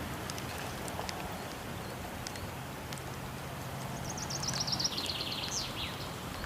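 Steady rush of a waterfall with a wood fire crackling in short scattered pops. About four seconds in, a songbird sings a quick trill of rapid notes that steps down in pitch and ends with a brief up-and-down whistle.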